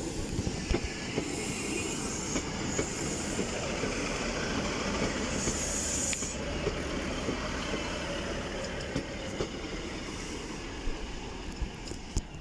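Class 156 diesel multiple unit arriving past at slow speed: engine running and a steady rail rumble, with wheels clicking over rail joints and points. There is a brief high hiss about six seconds in.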